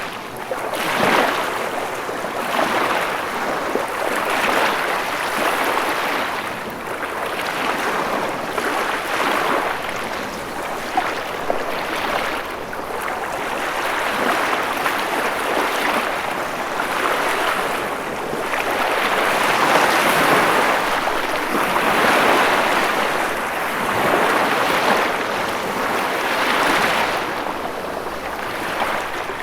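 Ocean waves breaking and washing in, a steady hiss of surf that swells and eases every few seconds.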